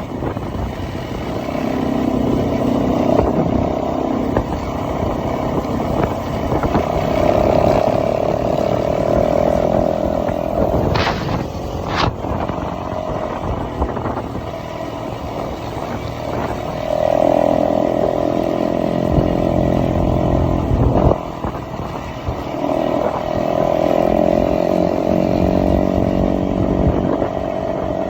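Motorbike engine running as it is ridden, its pitch rising and falling as the rider speeds up and eases off. Two sharp knocks about eleven and twelve seconds in.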